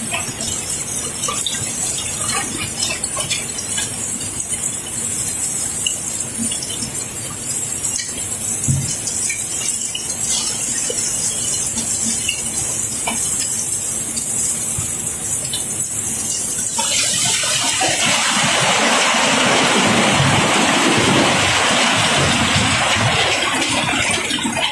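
A stream of cobblestones pouring and rattling as the barge is unloaded: a steady rush with scattered knocks of single stones, growing into a louder, fuller rush about two-thirds of the way through.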